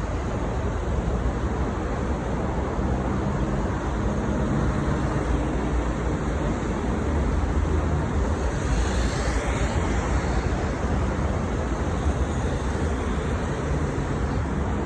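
Transperth B-series electric multiple unit train running, a steady rumble of wheels on track with low motor hum. About nine seconds in a brief high whine bends in pitch over the noise.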